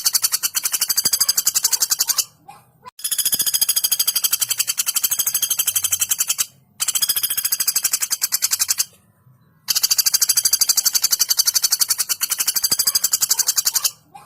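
Female common flameback woodpecker calling: long, fast rattling trills of sharp notes, about ten a second. The trills come in long runs broken by brief pauses about two, six and nine seconds in.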